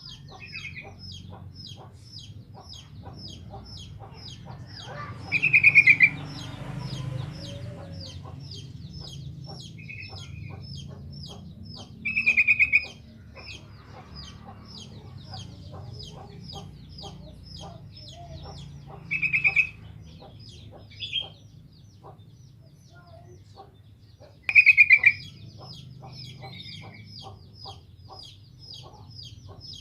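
Sooty-headed bulbul singing, with four loud short bubbling phrases spaced several seconds apart over a steady fast series of short high chirps, about three a second.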